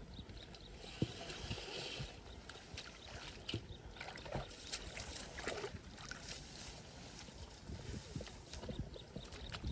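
Shallow muddy water splashing and sloshing in an irregular way, with scattered small knocks, as fish are grabbed by hand.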